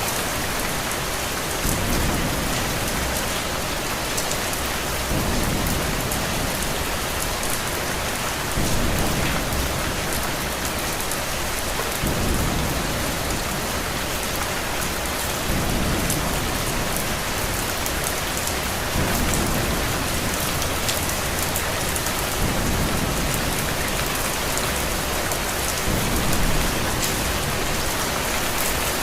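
Steady, heavy rain with a low rumble that swells about every three and a half seconds.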